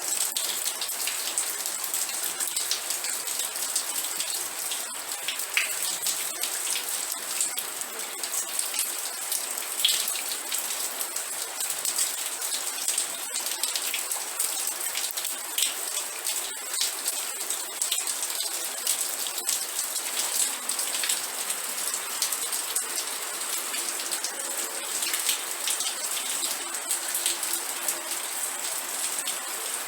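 Steady rain: a dense patter of individual drops over a bright, even hiss, with little low rumble and no thunder.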